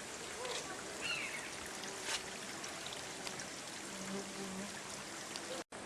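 Steady rush of a waterfall's water pouring and splashing down, with a few faint clicks over it. The sound cuts out for an instant near the end.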